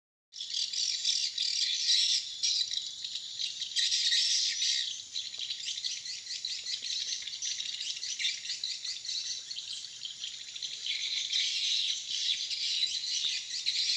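Swiftlets twittering: a dense, continuous chatter of rapid high chirps that starts abruptly just after the beginning.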